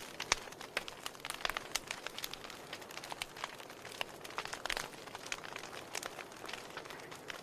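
Wood fire burning in a fireplace, logs crackling with irregular sharp pops over a soft steady hiss.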